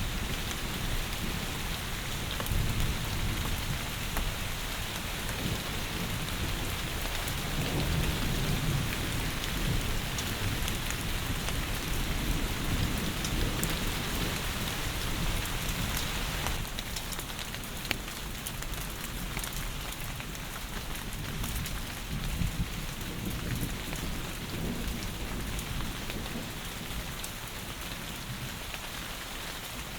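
Heavy rain falling steadily, with low rumbles of thunder underneath in the first half; the rain's sound thins a little about halfway through.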